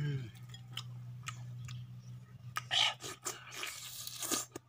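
Chewing and mouth smacking of someone eating grilled chicken by hand: a string of irregular wet clicks and crunches, the loudest just before three seconds in. A steady low hum runs underneath, and a short falling hum sounds right at the start.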